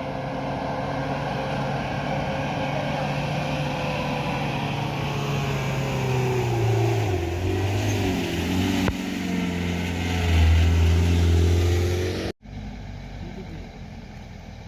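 Heavy truck engine running under load on a steep climb, its pitch dropping and wavering about six to eight seconds in and getting louder near ten seconds. A little after twelve seconds the sound cuts off abruptly and gives way to quieter background noise.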